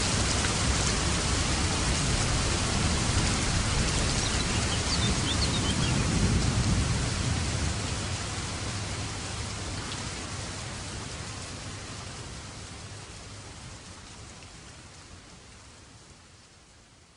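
Steady rain with a low rumble of light thunder swelling about six seconds in, after which the whole sound slowly fades out.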